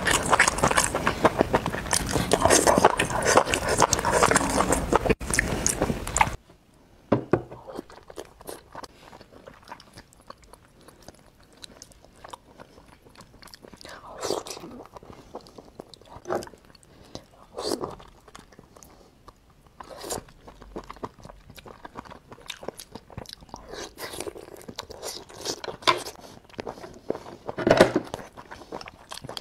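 Close-miked eating sounds: about six seconds of loud, dense crunching and chewing that cut off abruptly, then quieter chewing of sea snail meat with scattered mouth clicks and smacks.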